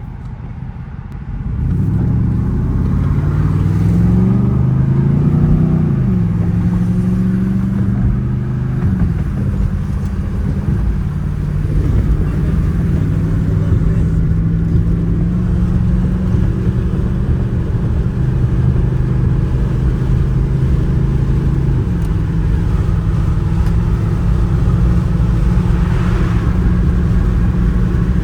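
Dodge Charger R/T's 5.7-litre Hemi V8 accelerating hard from about a second and a half in, climbing in pitch up to a gear change, then running at a steady cruise.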